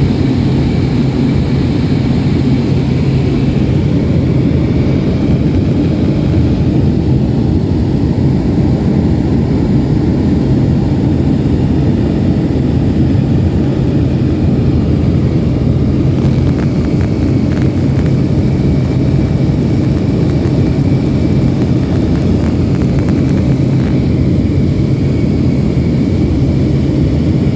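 Steady engine drone inside the cabin of a small passenger plane in flight, loud and unchanging.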